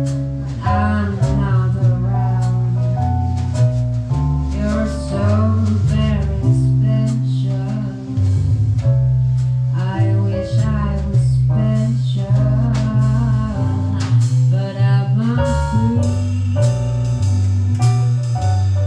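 Jazz quartet music: a prominent bass line of held notes under a wavering lead melody, with guitar and light percussion.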